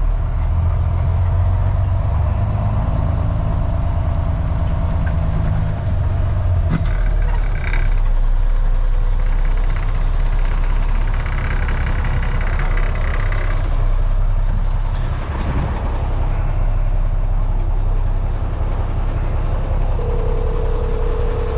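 Freightliner FLD dump truck's diesel engine running, heard from the cab, with a short steady tone near the end.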